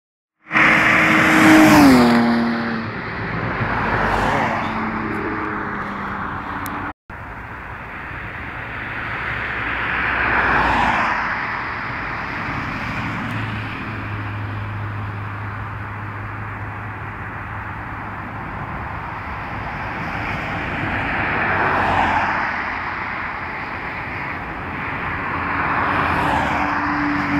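BMW E36 325i's M50 inline-six at high speed: near the start it goes past with its engine note falling in pitch. After a sudden cut there is steady high-speed engine and road noise that swells and fades three times.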